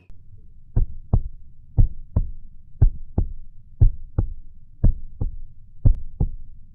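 Heartbeat, a double 'lub-dub' thump repeating steadily about once a second, six beats in all.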